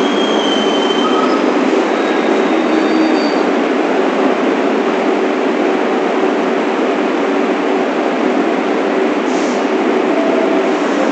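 New York City subway train on the 1 line running steadily, heard from inside the front car as a continuous rushing rumble. Faint brief high squeals come from the wheels in the first few seconds.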